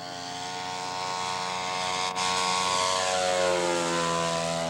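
Radio-control scale model airplane's engine running steadily as the plane flies past, growing louder and then dropping in pitch about three seconds in.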